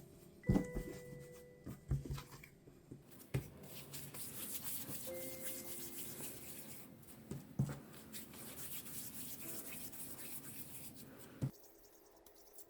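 Hands working yeasted glutinous-rice dough on a surface: a steady rubbing, with a few knocks.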